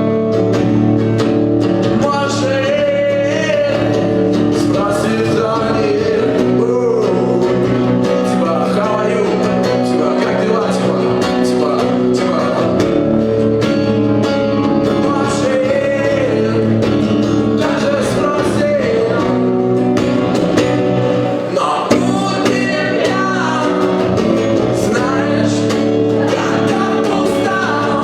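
Live acoustic performance: a singer with acoustic guitar, the vocal melody running over steady strummed chords.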